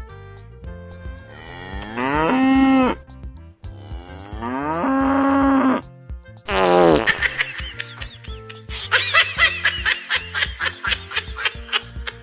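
Cartoon cow mooing sound effect, two long moos that drop in pitch and then hold, over light background music. These are followed by a shorter falling call and then a fast run of short high-pitched comic sounds.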